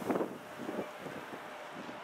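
A train passing, with wind buffeting the microphone; the loudest surges of noise come right at the start.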